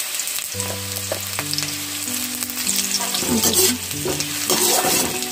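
Chopped onions sizzling in hot mustard oil in a kadai, frying until they brown. From about three seconds in, a perforated spatula scrapes and taps against the pan as the onions are stirred.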